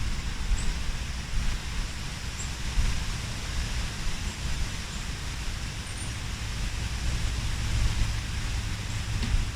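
Wind buffeting the microphone with an uneven low rumble, over a steady rushing hiss and a few faint high chirps.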